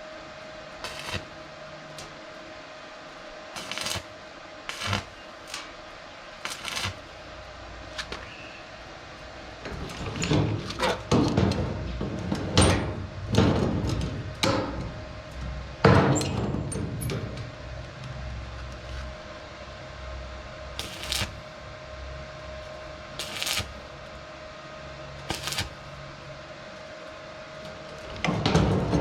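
Scattered knocks and clanks over a steady hum, with a busier run of knocks and thuds around the middle.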